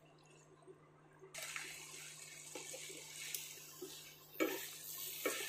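Stir-fry of mushrooms and vegetables sizzling in a nonstick pan over a high flame as it is stirred with a wooden spatula: a steady hiss that starts about a second in, with a few light taps and scrapes of the spatula against the pan.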